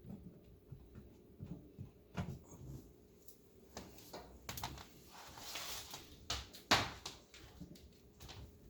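Scattered knocks and clicks with a short scraping rustle in the middle, from unplugging an electric oven's power cord at the wall outlet; the sharpest click comes about two-thirds of the way through.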